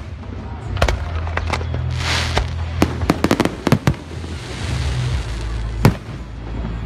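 Fireworks going off: irregular sharp bangs, some in quick clusters, with two stretches of hissing about two seconds and five seconds in. Music with a low bass hum plays underneath.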